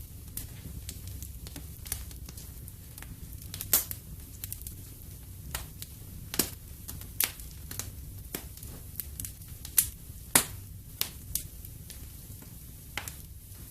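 Wood fire in a fireplace crackling: irregular sharp pops and snaps over a low steady rumble, with the loudest pops about four seconds in and again around ten seconds in.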